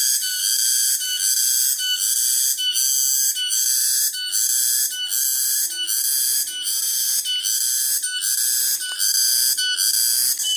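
Cicadas singing: a loud, high, buzzing song that pulses about twice a second.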